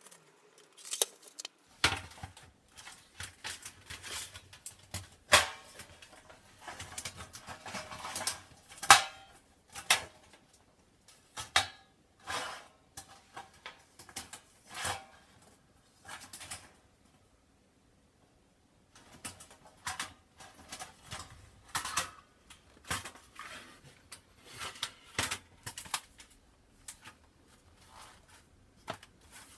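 Thin metal parts of a homemade folding firepit clinking and clattering as they are handled and fitted together: irregular sharp knocks and clinks, some briefly ringing, with a short pause past the middle.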